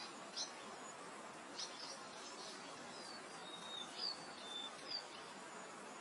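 Birds calling in a meadow: a few short high chirps, then several brief whistled notes that slide slightly in pitch, the loudest about four seconds in. Under them runs a steady soft hiss of wind through grass.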